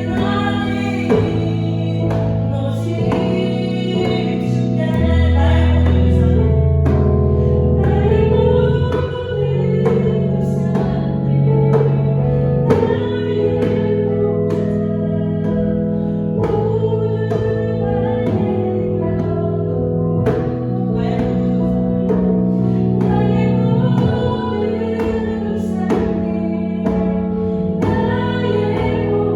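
Worship song sung over sustained chordal accompaniment, with a djembe beating a steady rhythm.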